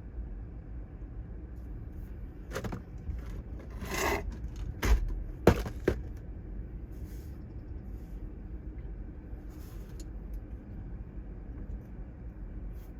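Steady low rumble of wind and surf, with a handful of sharp knocks clustered about two to six seconds in.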